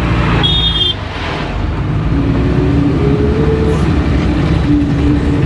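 Driving noise heard inside a moving car: a steady low rumble of engine and tyres on the road. A short high-pitched beep sounds about half a second in, and a steady humming tone comes and goes from about two seconds on.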